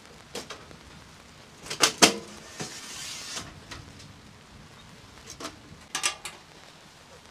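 Several sharp knocks and clatters, the loudest a quick pair about two seconds in and another pair about six seconds in, over faint rain.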